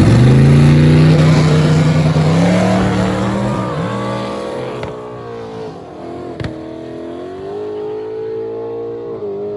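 Car engine at full throttle accelerating hard, its pitch climbing and then dropping at each gear shift, about three times, growing fainter as it pulls away. A sharp click sounds about six seconds in.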